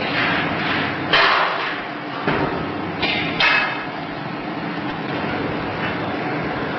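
A big steel bar whacking a freshly galvanized steel part four times in about two and a half seconds, each a sharp metallic clang with a short ring. The blows knock the excess molten zinc drippings off the part. A steady industrial hum runs underneath.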